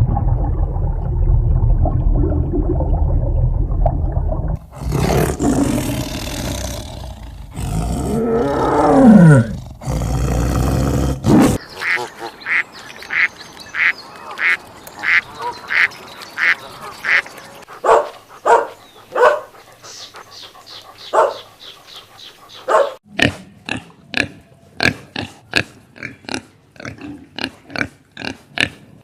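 A string of different animal calls: a low rumbling sound first, then a run of short calls repeated about twice a second, then quicker, clipped calls.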